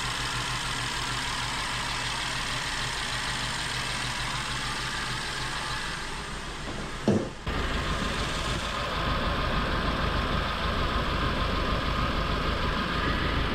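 BMW N63 4.4-litre twin-turbo V8 idling unevenly on its first start after an engine rebuild, not yet running well. A little past halfway there is a short pitch sweep, and then the tone of the running changes abruptly.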